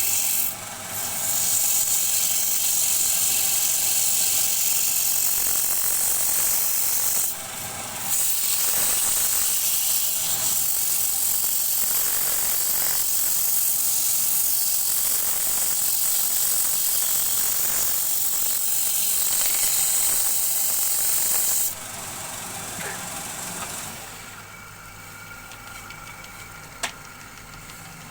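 Wood spinning on a lathe with a turning tool worked against it: a steady high hiss of shaving, broken off twice briefly, which stops after about twenty seconds, leaving a quieter lathe run and a single click near the end.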